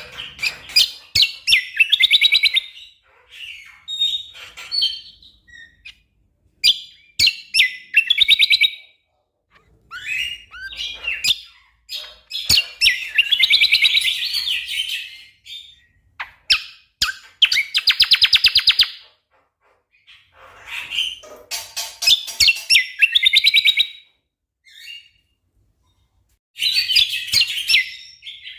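Greater green leafbird (cucak kombo) singing in bursts of sharp clicking notes and rapid chirping trills, separated by short pauses, with a longer pause near the end.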